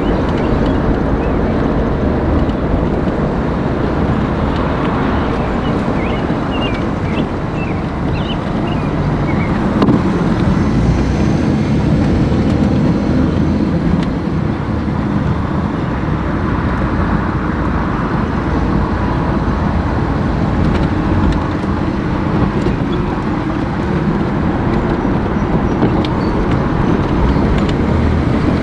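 Steady low rumble of a moving vehicle, road and engine noise, with a few faint chirps a quarter of the way in.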